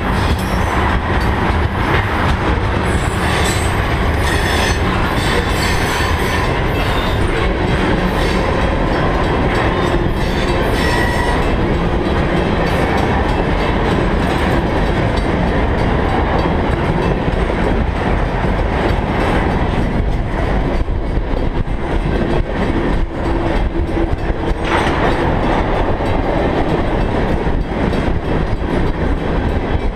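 Freight train tank cars rolling past close by: a steady rumble and clatter of steel wheels on the rails, with a few brief squeals now and then.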